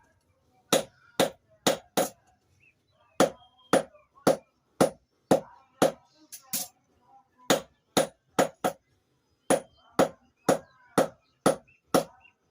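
Blacksmith's hammer striking steel on an anvil while forging a blade: sharp blows about two a second, in runs of four to seven with short pauses between.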